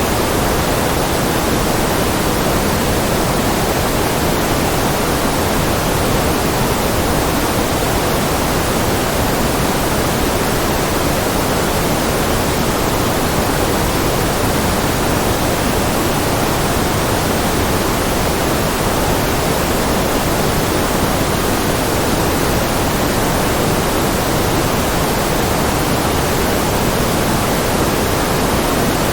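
Steady white noise: an even, unbroken hiss with no changes in level or pitch.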